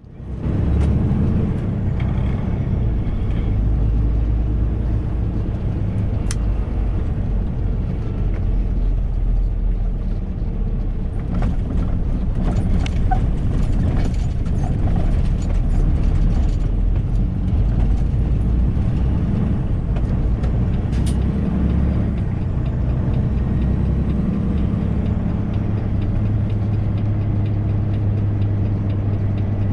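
Heavy truck's diesel engine running, heard from inside the cab as a low steady drone whose pitch shifts a few times. Occasional short clicks and rattles sound over it.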